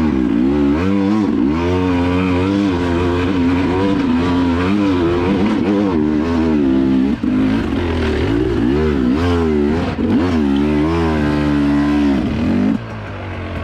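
Two-stroke enduro dirt bike engine under hard load on a hill climb, its pitch rising and falling rapidly as the throttle is worked. It drops back to a lower, steadier note near the end.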